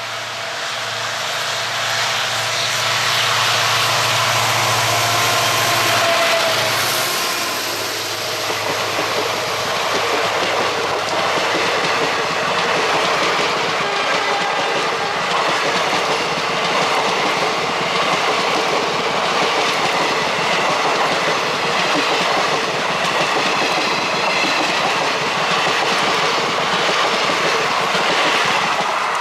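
Mysore–Talguppa Intercity Express passenger train running past close by. A low steady locomotive drone is heard for about the first seven seconds, then the coaches roll past with continuous wheel-on-rail noise.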